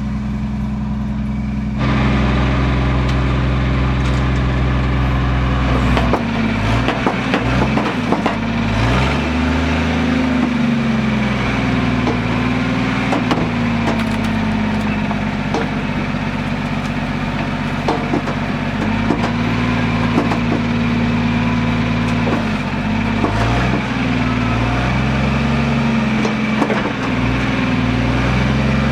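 Lull telehandler engine running, its speed dipping and rising several times as it works, with scattered knocks and clunks.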